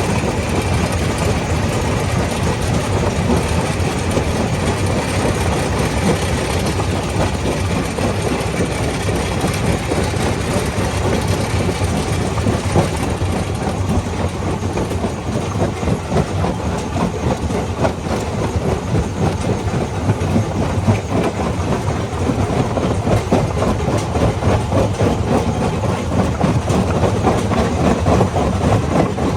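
Stone crusher running under load, rocks being broken with a dense, continuous clatter and grinding over a heavy low rumble.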